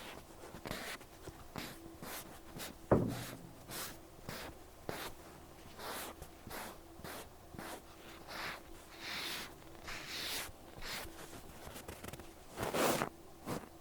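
Cotton pad wiping and rubbing over an ear, in repeated short rubbing strokes, with one sharp knock about three seconds in and a louder stroke near the end.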